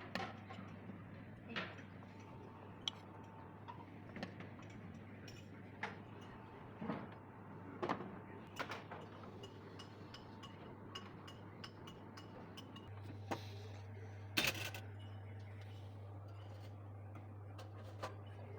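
Quiet kitchen handling sounds: scattered small clicks and knocks of dishes and utensils, with a louder clatter about fourteen seconds in. A steady low hum runs underneath and gets a little louder about thirteen seconds in.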